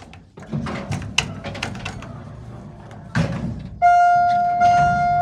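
Lift doors sliding with a rattle, ending in a thud about three seconds in, followed by a lift chime ringing one long, slowly fading tone.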